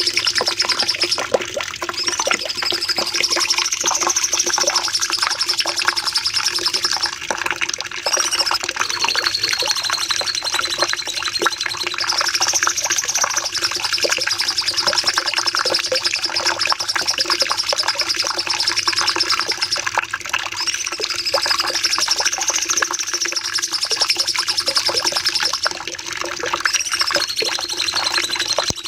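Cucak cungkok songbird singing a long, unbroken volley of rapid chattering notes, the 'nembak panjang' song used as masteran to teach other songbirds. A wavering high phrase comes back about every nine to ten seconds, with a faint steady low hum underneath.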